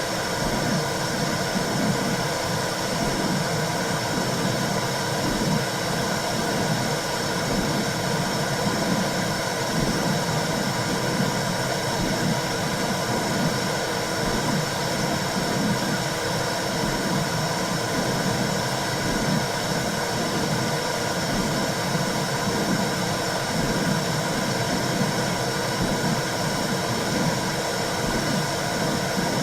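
Womb sound for soothing a baby: a steady whooshing noise with a low, even pulsing, like blood flow and heartbeat heard inside the uterus.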